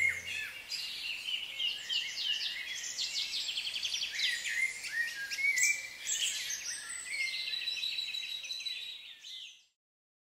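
Wild birds chirping and singing, many short calls and trills overlapping, fading out and stopping near the end.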